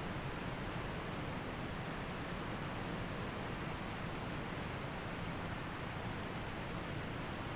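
Waterfall and creek water rushing steadily, an even noise that does not change.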